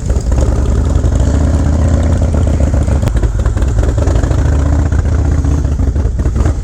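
Harley-Davidson Low Rider S V-twin engine running through an aftermarket exhaust, a deep, steady pulsing with some rise and fall in revs.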